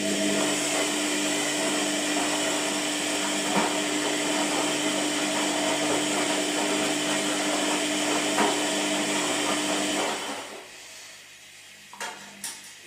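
Washing machine motor running with a steady whir and a held hum, starting abruptly and winding down about ten seconds in, followed by two sharp clicks near the end.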